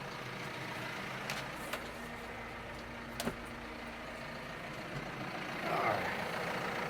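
Tractor engine idling steadily, with a few sharp clicks and knocks of metal being handled; the engine gets a little louder near the end.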